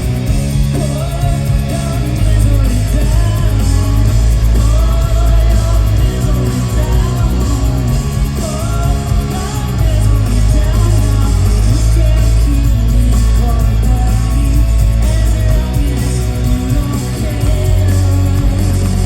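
Alternative rock band playing live at full volume, a woman singing lead over electric guitars, bass and drums.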